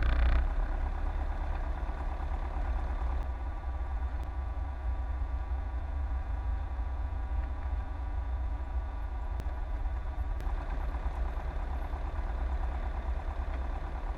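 Cessna 172S's four-cylinder Lycoming IO-360 engine and propeller running steadily at low taxi power, an even drone that holds the same pitch throughout.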